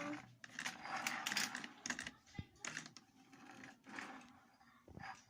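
Plastic toy vehicles being handled and pushed about on a surface: irregular scraping and rattling with a few sharp clicks.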